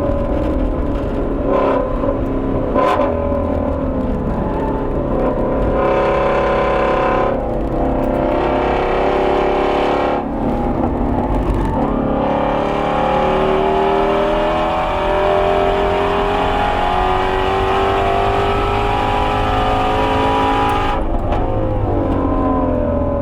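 Ford Shelby GT350R's 5.2-litre flat-plane-crank V8 at full throttle on track, its pitch climbing through the revs and dropping sharply at gear changes or lifts, several times early on and once more after a long pull near the end.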